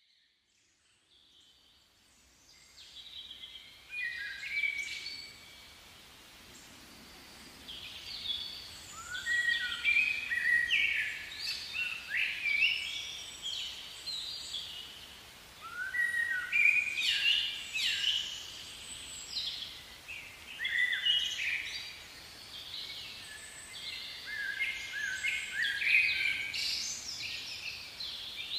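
Birdsong: several birds chirping and warbling in quick, overlapping phrases, fading in over the first few seconds.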